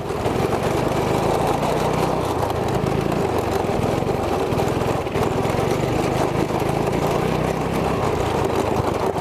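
212cc single-cylinder go-kart engine running, its pitch rising and falling a little.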